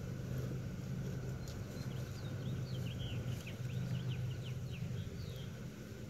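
A steady low hum, with a small bird singing a quick string of short, high, downward-sweeping chirps from about a second and a half in until about five seconds in.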